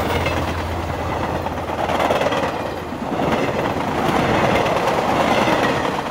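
A regional electric multiple unit train moving slowly past along the platform track, with the rolling noise of its wheels on the rails over a low steady hum. The noise swells about two seconds in and again from about four seconds.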